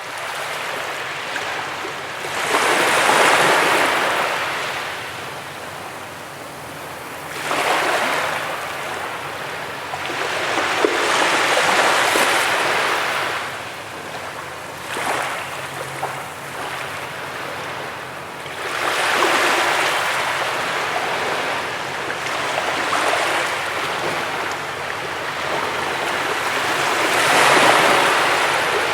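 Sea waves breaking and washing up a beach, swelling and fading in about five surges, each one arriving every four to eight seconds.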